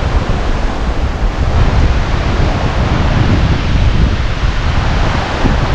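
Strong mountain wind blasting the microphone: a loud, steady rumble with a rushing hiss over it.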